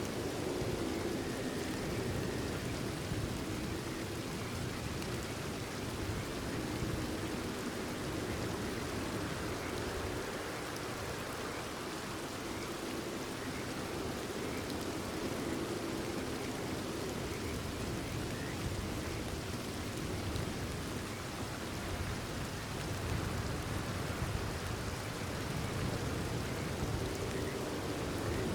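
Steady rain falling, with a chorus of frogs croaking low underneath that swells and fades every several seconds.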